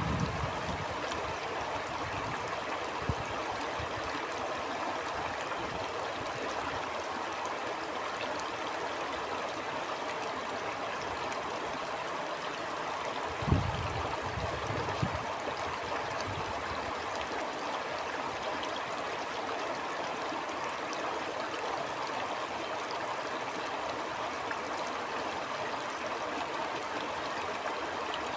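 A stream flowing steadily with a continuous rush of water. A few brief low thumps break in, the loudest about halfway through.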